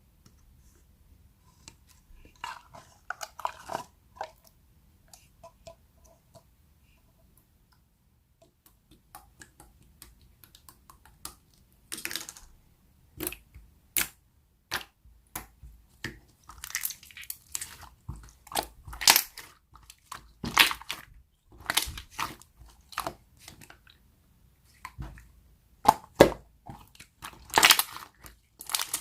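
Slime being squished and pressed by hand, making sharp popping and crackling sounds, sparse at first and coming thick and loud from about twelve seconds in.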